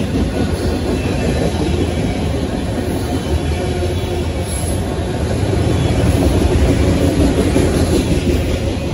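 Enclosed autorack freight cars rolling past close by: a steady rumble and clatter of steel wheels on the rails.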